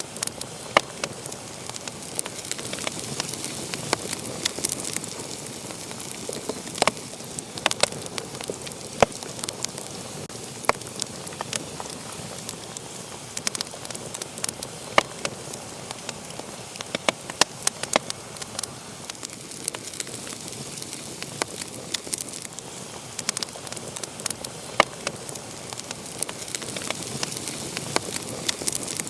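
Wood fire crackling in a fireplace: a steady soft hiss of flames with irregular sharp pops and snaps scattered throughout.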